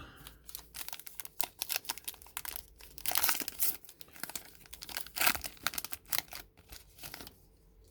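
Crinkling and tearing of a baseball card pack's wrapper being torn open by hand: a busy run of crackles that stops about seven seconds in.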